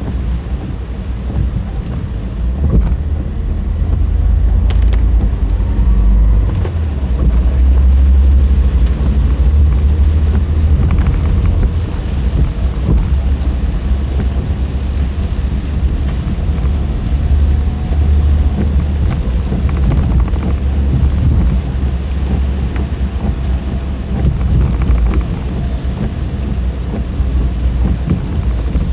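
A car driving through a typhoon rainstorm: a steady, loud low rumble of road and engine with a hiss over it, typical of tyres on a wet road, and a few faint clicks.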